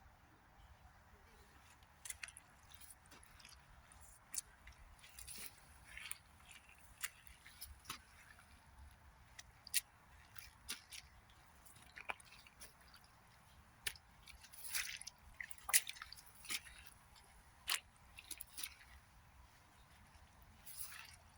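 Rainwater dripping and trickling along a wet forest trail: irregular sharp drips and small splashes, some close together, over a faint steady trickle.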